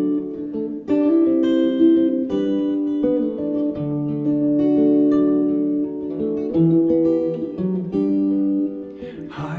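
Acoustic guitar strumming chords that ring on, a new chord every second or two, as a song's instrumental intro.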